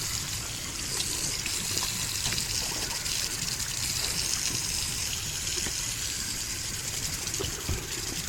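Tap water running steadily into a sink, with an engine air filter being washed under it.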